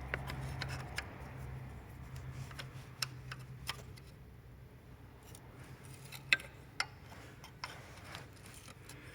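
Scattered clicks and light taps of hands and tools handling small engine parts, the sharpest two a little past the middle, over a low steady hum that fades out about two-thirds of the way through.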